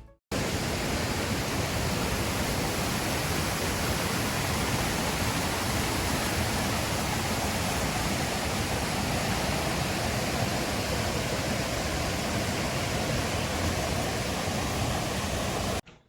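Steady rush of falling water, an even hiss that starts and stops abruptly.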